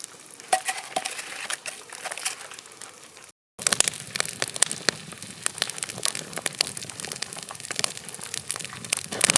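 Wood campfire crackling, with dense irregular pops and cracks, broken by a brief silence about a third of the way in.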